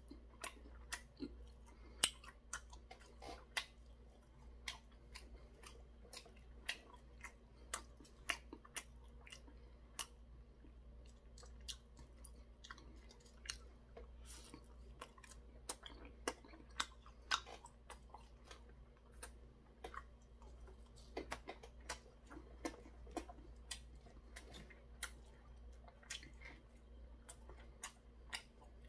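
A man chewing and biting into battered Korean fried food (twigim), faint, with irregular sharp crisp clicks and crunches.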